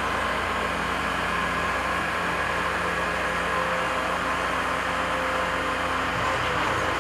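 Diesel engine of a compact construction machine running steadily under work, with a steady high whine over the engine note.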